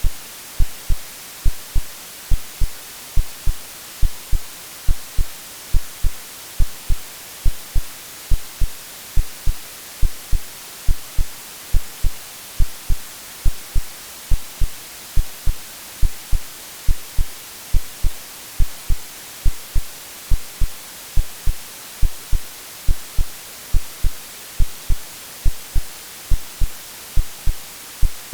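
Synthetic heartbeat of steady, evenly repeating low thumps, laid over a constant white-noise hiss that is strongest in the highs, made to resemble the sound of the womb.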